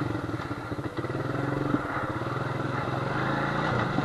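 Honda FourTrax ATV engine running at low revs while it works through a deep mud hole; its note sags for about a second near the start, then holds steady.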